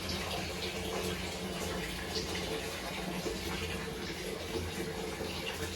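Steady rush of running water over a low hum.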